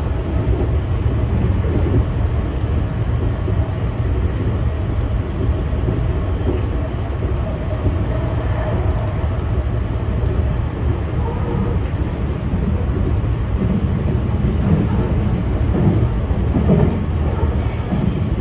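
Meitetsu local electric train running along the line, a steady low rumble heard from inside the front car.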